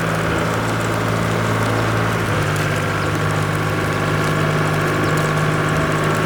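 A cartoon farm vehicle's engine sound effect: a steady idling hum whose pitch shifts slightly about two seconds in.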